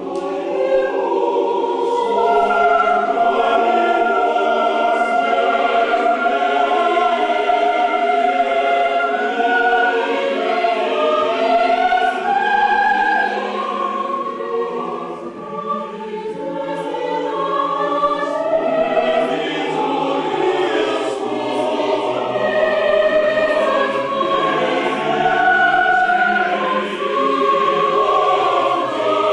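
Choir singing, several voice parts holding long sustained chords, with a short drop in loudness about halfway through before the singing swells again.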